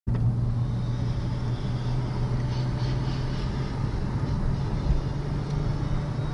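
Car engine and road noise heard from inside a moving car: a steady low drone.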